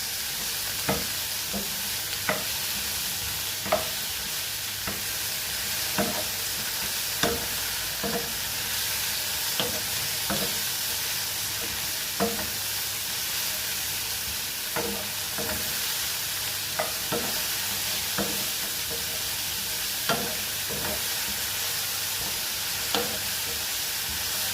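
Mushrooms sizzling in oil in a frying pan, with a spoon or spatula scraping and knocking against the pan about once a second as they are stirred.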